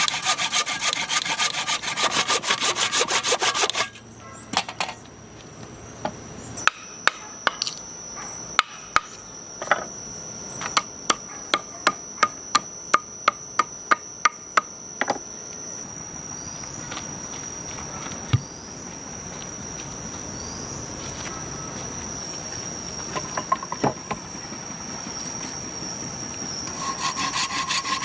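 Hand saw cutting wood in quick strokes, stopping about four seconds in; then a run of sharp knocks on wood, about two a second, before sawing starts again near the end.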